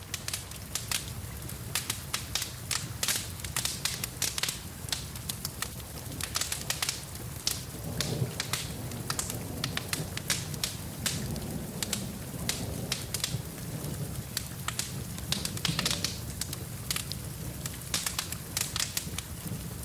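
Wood fire crackling with many irregular sharp pops, over a steady hiss of rain.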